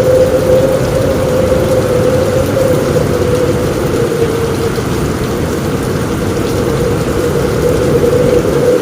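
Heavy rain on a roof with a steady low rumble of strong wind and a constant hum running through it.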